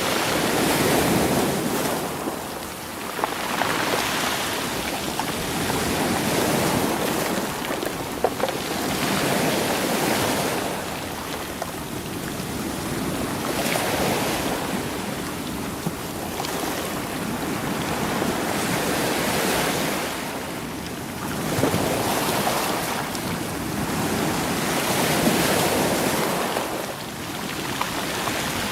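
Waves washing in and drawing back over a beach of rolling stones, the surf swelling every four or five seconds, with a few sharp clicks of stones knocking together.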